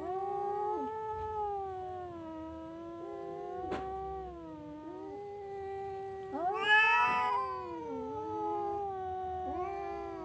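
Orange cat yowling in long, drawn-out cries that run almost without a break, rising into a louder, higher cry about two-thirds of the way through.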